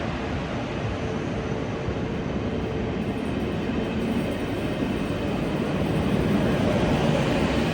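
ICE 2 high-speed train moving through the station, with a steady rolling and running noise. A faint steady tone fades out about three seconds in, and the sound grows a little louder toward the end.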